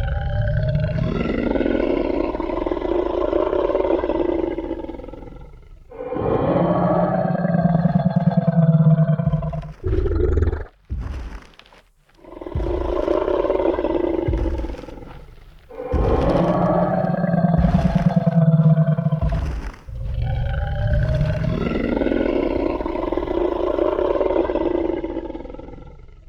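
Sound-effect Tyrannosaurus rex roars: five long, deep roars of several seconds each, one after another, with a few short heavy thumps like stomping footsteps in a gap about ten seconds in.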